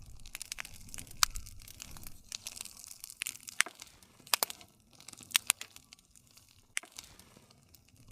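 Wood campfire burning, crackling with sharp irregular pops over a soft low rumble of the flames.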